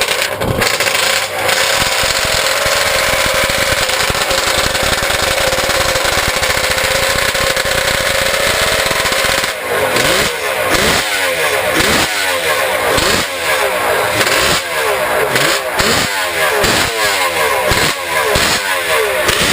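1970 Kawasaki 500 H1R racer's two-stroke three-cylinder engine being warmed up: held at a steady fast idle for about the first half, then blipped on the throttle over and over, rising and falling about one and a half times a second.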